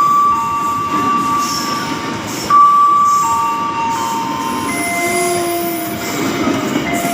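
Train running on the rails, its wheels squealing in long steady high tones that jump to a new pitch every second or two, over a low rumble.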